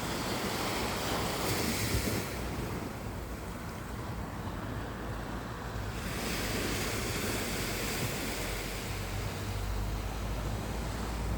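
Rushing noise of surf with wind on the microphone, swelling about two seconds in and again from about six seconds on, over a low rumble.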